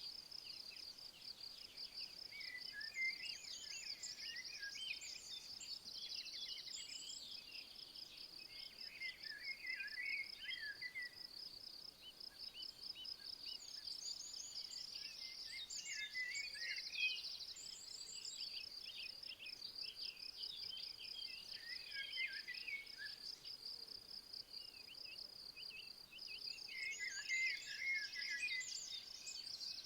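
Insects trilling in a steady, fast pulsing chirr that runs without a break, while a songbird sings short, varied phrases about five times, loudest near the end.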